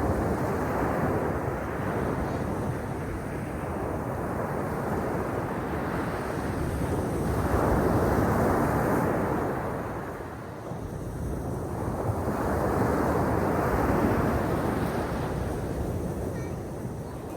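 Sea waves washing onto the shore, a steady surf noise that swells and eases three times.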